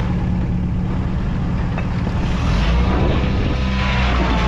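Lifted off-road truck's engine running steadily at low revs while it crawls over rocks, with wind on the microphone. A faint whine comes in about halfway.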